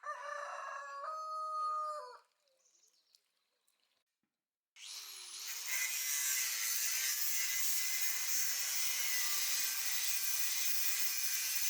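A rooster crows once, one held call. Then, from about five seconds in, a power tool starts up and runs steadily with a loud hiss.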